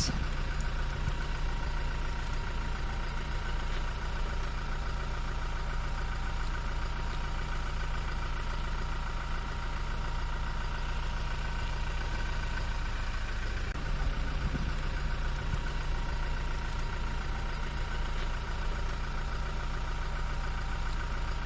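A vehicle engine idling steadily, with a constant low hum and a faint steady whine above it. About 13 seconds in there is a brief wobble in the hum.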